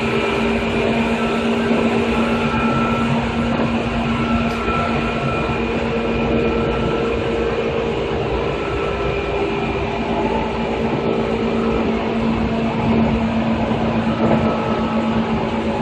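2000 series electric train running at a steady speed, its traction motors giving a steady hum of several tones over the running noise of the wheels on the rails.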